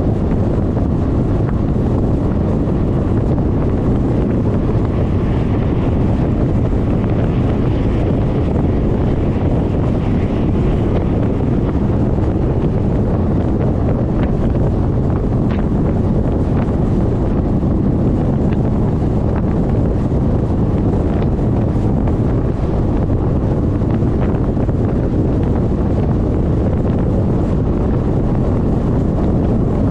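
Steady, loud wind rushing over a GoPro's microphone mounted on a riding Suzuki Burgman 400 scooter, a low rumbling roar that buries any engine or tyre noise.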